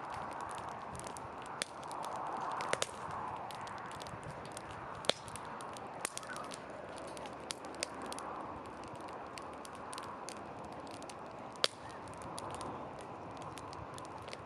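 Wood campfire burning: a steady rush of flame that swells and fades, broken by sharp irregular pops and crackles from the burning wood.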